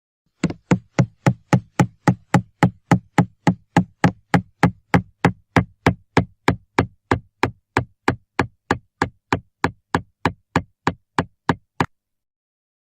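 A long, even series of sharp knocks, a little under four a second, that starts about half a second in and stops near the end.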